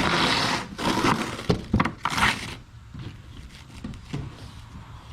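Cardboard packaging being handled, rustling and crinkling in a few short bursts with some sharp knocks.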